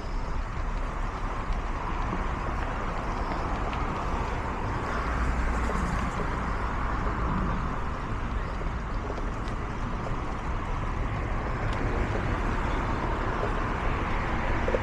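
Steady outdoor ambience on a walk: an even low rumble and hiss, typical of an urban street, with no single event standing out.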